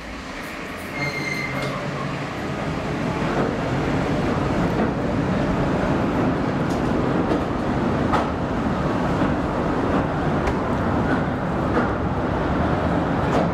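Southend Pier Railway train pulling out and running along the pier track: a steady rumble of wheels on rail that builds over the first few seconds and then holds, with a brief high tone about a second in and a few sharp clicks.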